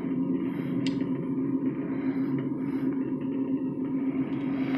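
Steady vehicle cabin noise inside a truck: engine and road rumble with a constant low hum. There is one short click about a second in.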